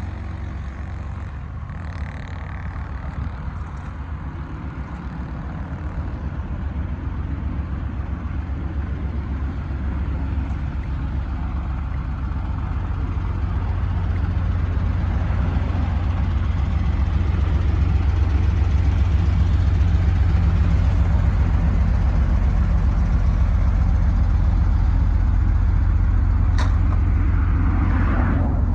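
A motor vehicle driving, with a steady low rumble of engine and road noise that gradually grows louder over the first half.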